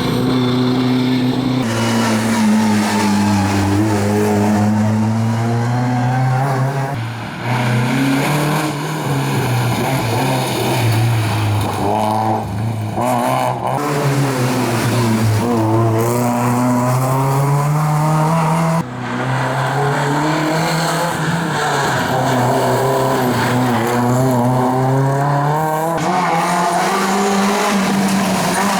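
Historic rally cars' engines revving hard and dropping back, pitch climbing and falling over and over through gear changes and corners. The sound changes abruptly a few times as one car gives way to the next.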